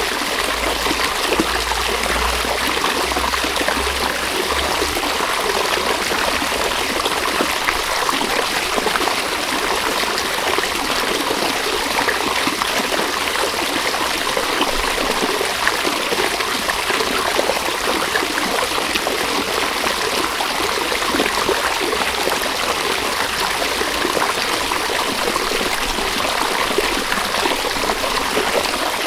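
River water flowing steadily, an even, unbroken rush and trickle.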